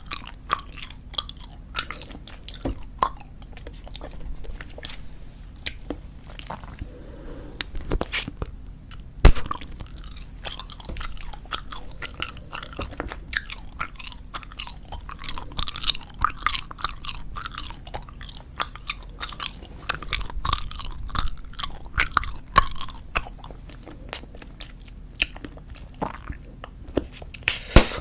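Close-miked chewing of squeeze-tube bubblegum: a steady run of wet, irregular clicks and smacks. Two sharper, louder snaps stand out, about nine seconds in and near the end.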